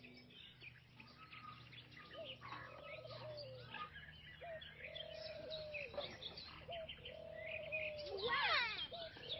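Faint birdsong: scattered chirps and short whistled calls, some held briefly and dipping at the end, with a louder sliding call near the end.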